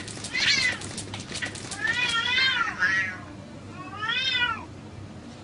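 Domestic cat meowing three times. Each meow rises and then falls in pitch, and the middle one is the longest.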